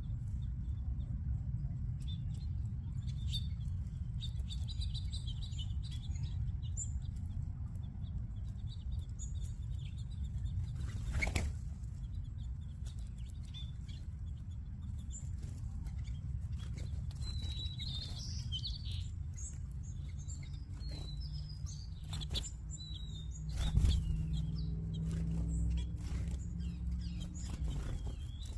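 A flock of small feeder birds (finches, sparrows and munias) chirping, with scattered short high calls throughout. There are two sudden louder flurries, the louder about two-thirds through, over a steady low rumble.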